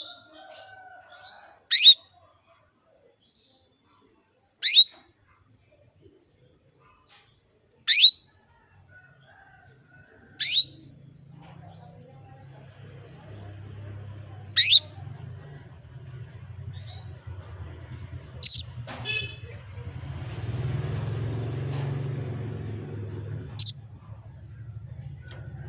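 Female canary in breeding condition calling for a male: single sharp chirps that sweep steeply down in pitch, repeated every three to four seconds, with short soft runs of high pips between them. A low hum comes in underneath from about ten seconds in.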